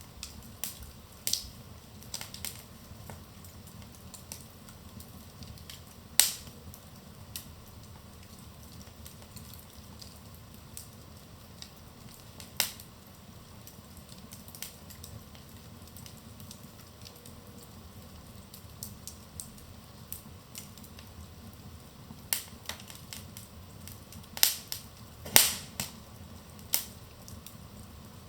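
Wood fire in a fireplace crackling: scattered sharp pops and snaps over a steady low rumble of the flames, with a cluster of louder pops near the end.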